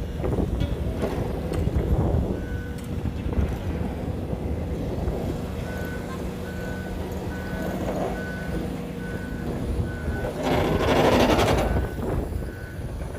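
Reversing alarm of a heavy construction machine beeping at about two beeps a second over the low rumble of diesel engines. A loud burst of noise lasting about a second comes near the end.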